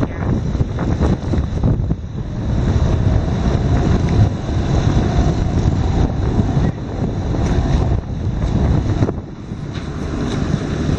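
Wind buffeting the microphone: a heavy, gusty low rumble that rises and falls.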